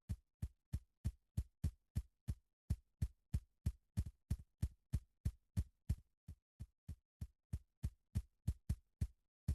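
A steady, rapid thumping beat, about three and a half deep thuds a second, each thud dropping in pitch as it fades.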